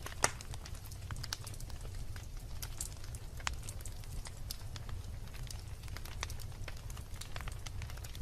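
Wood logs burning in a fireplace, crackling with irregular sharp pops over a steady low rumble of the flames. The loudest pop comes about a quarter second in.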